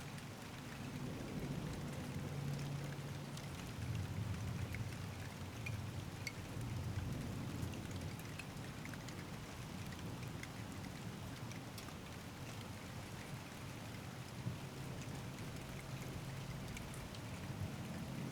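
Steady rain falling during a thunderstorm, with many separate drops ticking on nearby surfaces. A low rumble underneath swells and eases a few times.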